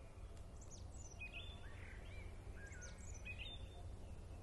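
Small birds chirping in short, high calls, some sliding up or down in pitch, over a steady low background rumble.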